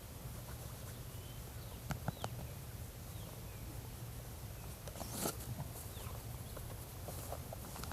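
Outdoor ambience: faint short high chirps of small birds, a few sharp clicks about two seconds in and a louder rustling snap a little after five seconds, over a steady low rumble.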